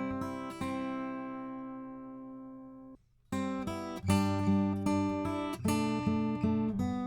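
Acoustic guitar playing chords, heard through a Warm Audio EQP-WA tube equalizer with its low band boosted. One chord rings out and fades, the sound cuts off abruptly about three seconds in, and the playing starts again a moment later.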